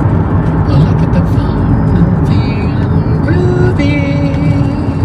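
Steady road and engine rumble inside a moving car's cabin. From about two seconds in, a few held tones sound over it.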